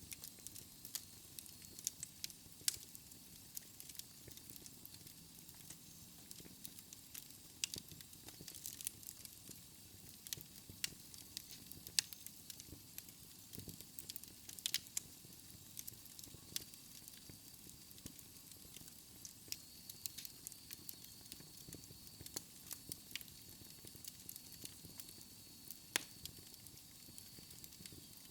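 Fireplace fire crackling, with irregular sharp pops and snaps over a soft steady hiss. A thin high whistle joins about halfway through.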